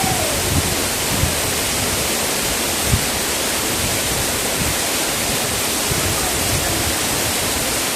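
Steady rush of fast-falling water from a waterfall, with a few faint low thumps.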